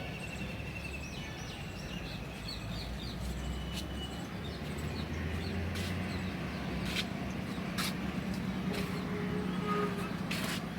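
Outdoor ambience: birds chirping in quick short notes over a steady low background rumble, with a few sharp clicks in the second half.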